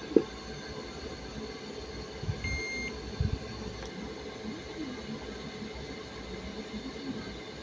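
A single short electronic beep from a device's buzzer, over a steady electrical hum, with a click near the start and two low knocks around the beep.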